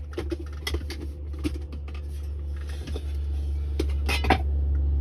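Truck engine droning low and steadily inside the cab, slowly growing louder, with scattered light rattles and clicks from the cab.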